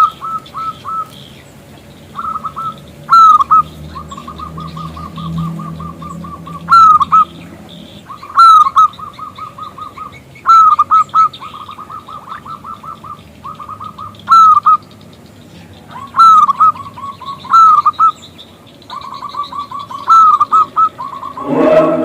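Zebra dove (perkutut) cooing: repeated phrases of rapid trilled notes punctuated by louder hooked notes, one phrase every second or two. Faint high chirps of small birds sound in the background, and a louder, lower sound joins shortly before the end.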